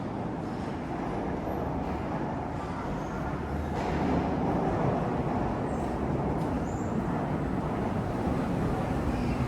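Steady low rumbling background noise, getting a little louder about four seconds in.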